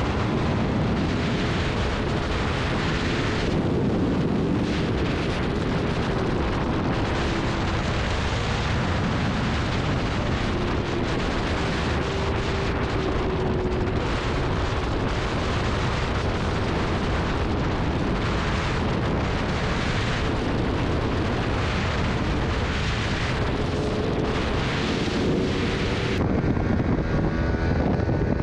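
Superbike engine running at speed under heavy wind rush on the microphone, its pitch drifting gently up and down. The sound changes abruptly near the end.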